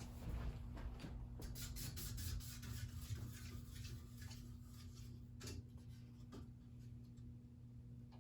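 Modern Fan Company Industry ceiling fan motor humming faintly and steadily, with a few scattered light clicks and rubbing noises.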